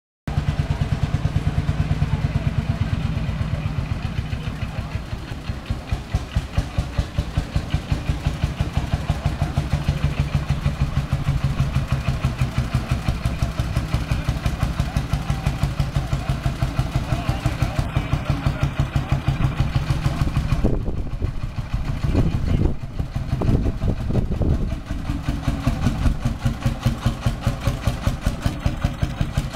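Vintage diesel tractor engine running with a steady, evenly spaced exhaust beat. The beat turns uneven for a few seconds past the middle, then settles back.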